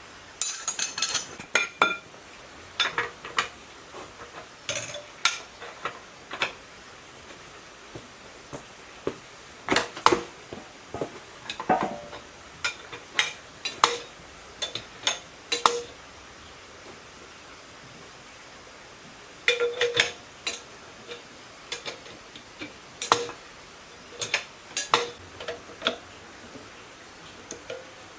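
Metal tools and engine parts clinking and clanking against each other, in irregular clusters of sharp knocks with a short ring, broken by a pause of a few seconds about two-thirds of the way through.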